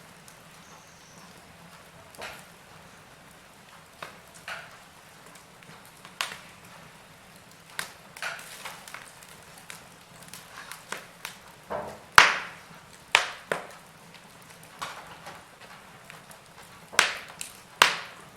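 Wood fire crackling in a fireplace: a low, even burning noise broken by irregular sharp pops and snaps of burning logs, the loudest about twelve seconds in and a cluster near the end.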